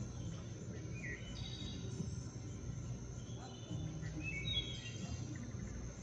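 Woodland outdoor ambience: scattered short high chirps over a steady low rumble, with a faint steady high tone.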